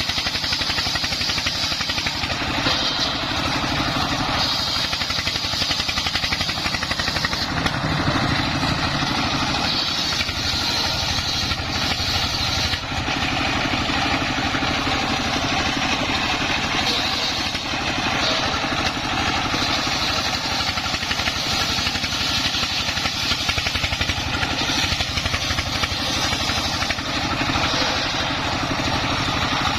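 Dongfeng 24 hp single-cylinder diesel engine running steadily under load, driving a homemade circular saw. A higher hiss comes and goes over it in stretches of a second or more as the blade cuts through timber.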